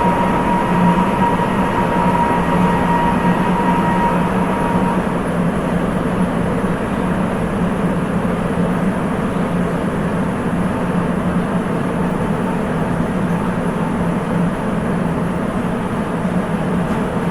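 Sapporo Municipal Subway 8000-series car running between stations on its rubber tyres: a steady, loud rumble with a thin whine near the start that dies away about five seconds in.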